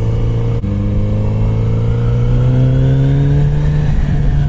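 Kawasaki Z900RS Cafe's 948 cc inline-four engine pulling in second gear. The note breaks briefly about half a second in, then rises slowly as the bike accelerates, and drops back about four seconds in.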